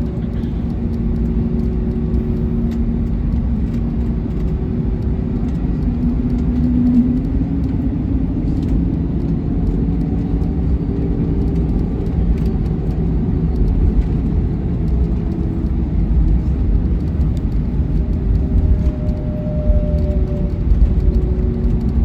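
Airbus A321neo cabin noise while taxiing: a steady low rumble with engine hums at idle that drift slightly up and down in pitch.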